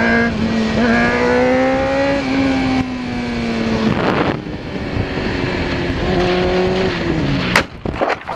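Sport motorcycle engines running hard at high revs, the pitch climbing slowly, then a second engine note that falls away. Near the end come a couple of sharp knocks.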